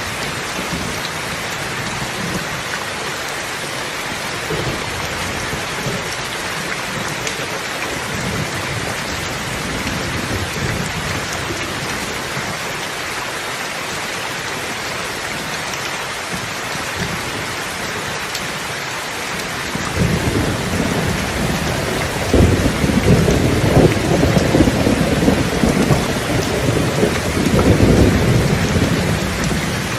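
Steady rain falling, with a long low rumble of thunder that starts about two-thirds of the way through and dies away near the end.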